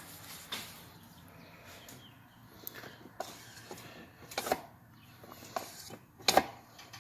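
Irregular clicks and knocks from a Thetford RV toilet's flush mechanism being worked by hand to test it after the repair, over a faint steady hiss.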